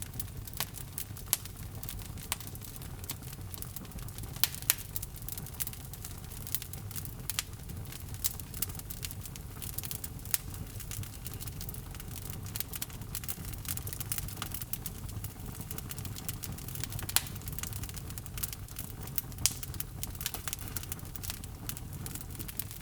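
Wood logs burning in a fireplace: a steady low rumble of flames with constant irregular crackling and occasional louder pops.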